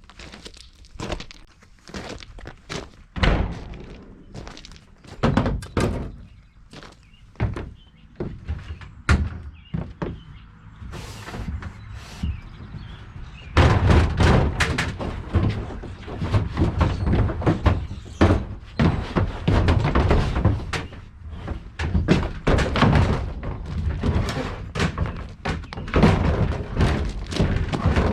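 Irregular thunks and knocks of the plastic parts of a portable toilet being handled and worked on, sparse at first and coming thick and fast from about halfway.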